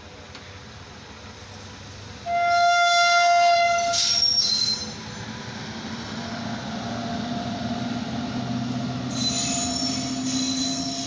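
An Indian Railways electric locomotive sounds one loud horn blast lasting about two and a half seconds. It and its coaches then run past, the running noise building, with wheels squealing near the end.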